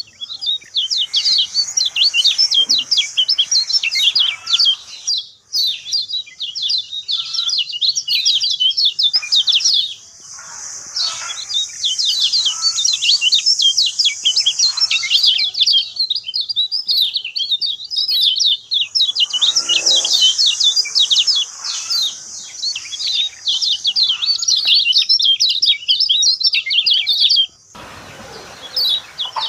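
Lemon-bellied white-eye (kecial kuning) singing prolifically: a fast, high twittering song in long runs with short breaks. Near the end the song stops for about two seconds, leaving only a faint hiss.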